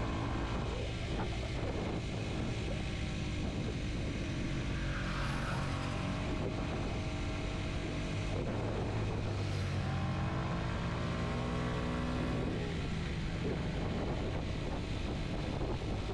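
Kawasaki Z125's single-cylinder four-stroke engine running under way, its revs falling near the start and rising again, then dropping, later on as the rider works the throttle and gears, over a steady wind rush.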